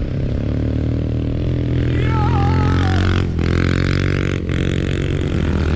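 Small motorcycle engine, a pit bike ridden through deep snow, running steadily under throttle. It drops out briefly twice in the second half.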